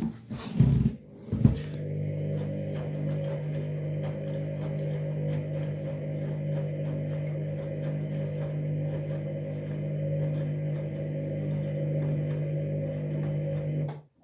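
Candy washing machine running: a few loud clunks in the first second and a half, then a steady motor hum with faint regular ticking, which cuts off suddenly near the end.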